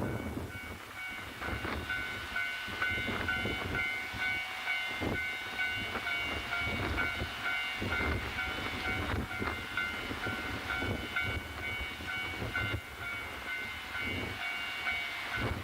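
Diesel train running, a steady high whine over a low rumble, with strong wind buffeting the microphone throughout.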